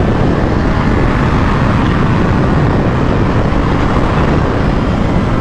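Loud, steady wind rush on the microphone of a Kawasaki H2 being ridden fast, with its supercharged inline-four engine running underneath.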